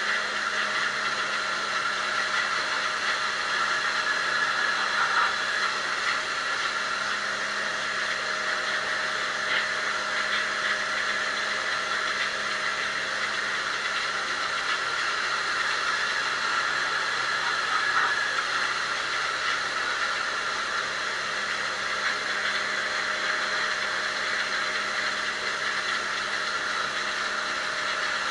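Mini pressure washer running steadily, its motor and pump humming under the hiss of the water jet as it washes dirt out of an air conditioner's cross-flow fan drum.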